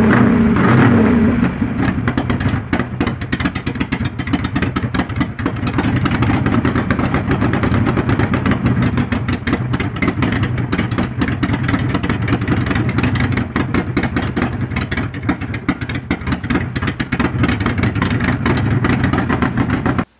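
Buell XB12S air-cooled V-twin motorcycle engine running on a newly fitted points ignition. It is louder at first, then drops to a lower steady run about a second and a half in, with a rapid, uneven train of firing pulses. The sound cuts off abruptly at the very end.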